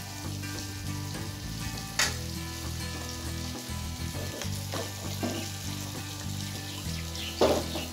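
Onion-tomato masala sizzling in mustard oil in a kadai as white mustard paste goes in. A single sharp clack sounds about two seconds in.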